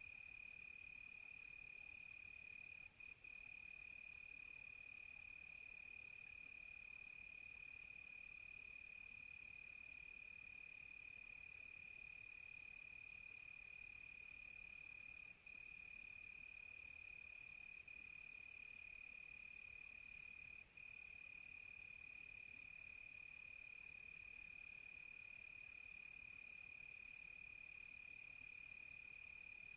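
Crickets chirping at night in a steady chorus: one continuous high trill, with a second, higher rapid pulsed chirping that stops for several seconds in the middle and then comes back.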